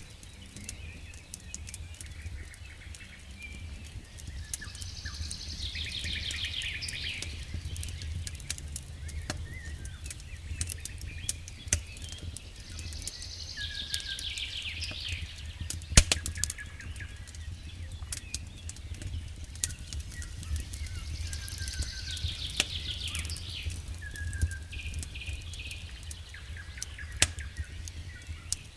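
Campfire crackling with scattered sharp pops, the loudest about sixteen seconds in, over a steady low rumble. A songbird repeats a trilled song phrase three times, with shorter chirps in between.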